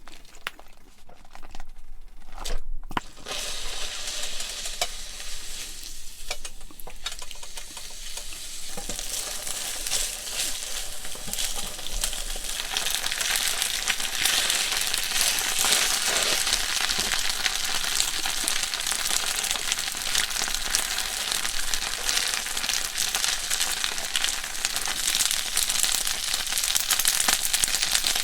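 Food frying in a hot pan with a dense, steady sizzle and crackle. It grows louder about a third of the way in and then holds.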